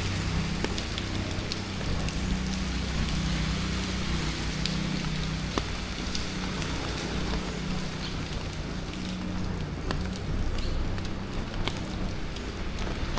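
Steady rain falling on a city street, with scattered ticks of drops and a low hum of traffic underneath.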